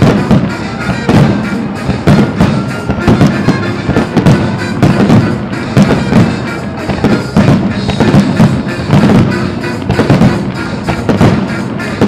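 Aerial fireworks going off in rapid, irregular succession, many sharp bangs a second, over loud music from the show's soundtrack.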